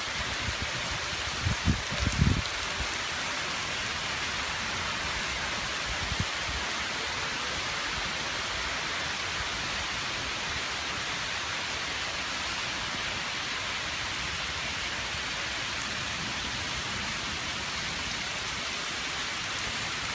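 Steady rain falling, an even, dense hiss throughout. A few low thumps stand out about two seconds in, and one more around six seconds.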